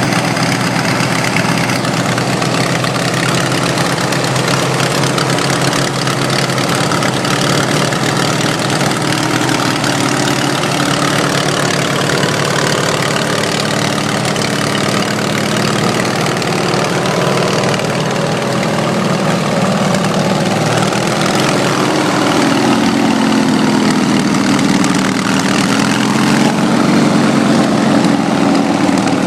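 18 hp Briggs & Stratton twin-cylinder engine running steadily, its speed wavering up and down somewhat in the last several seconds.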